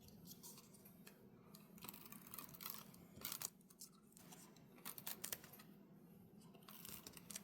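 Faint paper-handling sounds: light rustles and scattered small clicks of craft paper and a tape runner being worked by hand.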